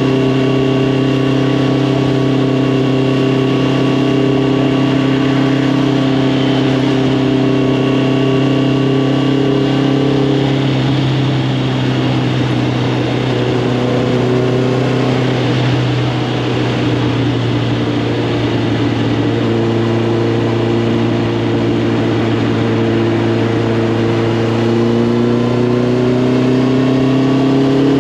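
Honda CB650R's inline-four engine through an Arrow Thunder full exhaust system, running on the move. It holds a steady note, goes rougher and less even about a third of the way in, then climbs slowly in pitch through the last third as the bike accelerates.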